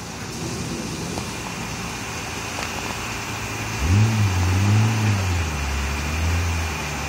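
Nissan 300Z twin turbo's V6 engine revving: about four seconds in it climbs sharply twice, then settles to a lower steady note that drops away near the end.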